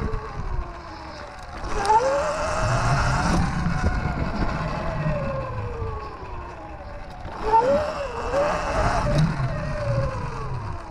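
Sur-Ron Light Bee X electric dirt bike's motor whining, rising sharply in pitch as the throttle is opened about two seconds in and again near the end, then falling away as the bike slows, over a low rumble.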